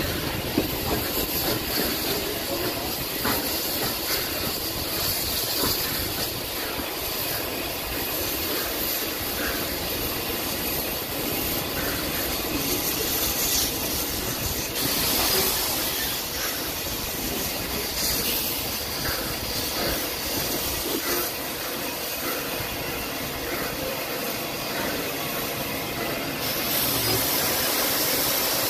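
Train running along the track, heard on board: a steady rumble with faint irregular clicks of the wheels over the rail joints. A brighter hiss comes in about halfway through and cuts off suddenly near the end.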